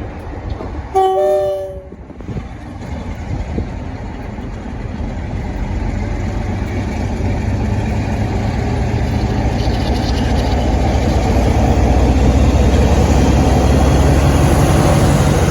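A train horn sounds a short two-note blast about a second in, then a train's engine and wheels rumble, growing steadily louder as it comes closer.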